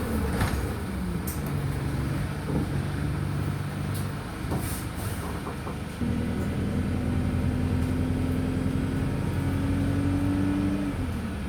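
Wright Streetlite DF single-deck bus engine heard from inside the bus: it runs at a low steady pitch, then at about six seconds it pulls harder, its pitch slowly rising as the bus accelerates, and eases off near the end. A few brief rattles in the middle.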